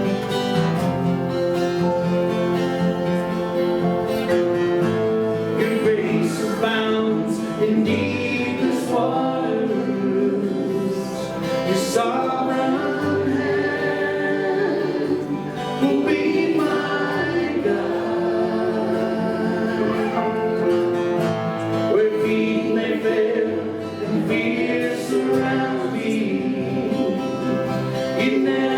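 Worship music: voices singing a slow praise song over acoustic guitar and other instruments.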